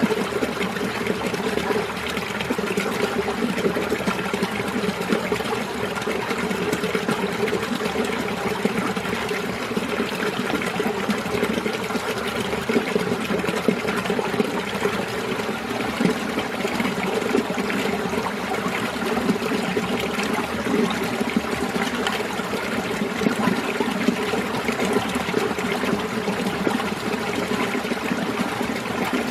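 Winter mountain stream flowing over rocks: a steady babble and trickle of water with no breaks.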